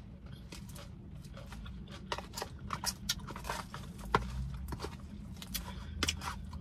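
Close-up chewing and wet mouth clicks of someone eating tuna salad, a run of irregular sharp clicks mostly from about two to six seconds in, over a steady low hum.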